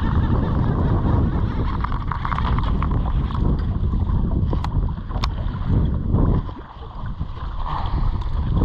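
Wind buffeting the microphone in gusts, a low uneven rumble that drops away briefly about two-thirds of the way in, with a couple of sharp clicks near the middle.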